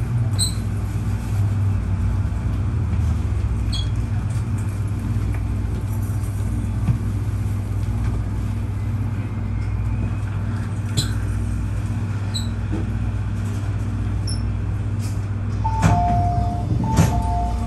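Steady low electrical and mechanical hum of an MTR East Rail Line MLR (Metro Cammell) electric multiple unit at a station platform, heard from inside the car. Near the end an electronic two-tone door chime sounds, twice.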